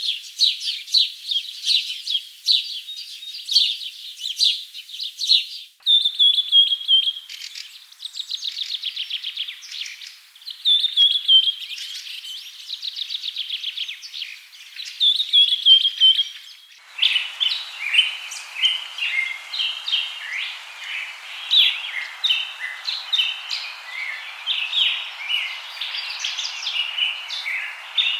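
Birds chirping and singing in quick high notes and fast trills. The mix of calls changes abruptly about six seconds in and again about seventeen seconds in, and from the second change a steady background hiss lies under the birdsong.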